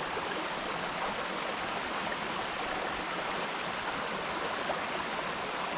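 Steady rush of falling water from a small waterfall and its stream, an even hiss with no change.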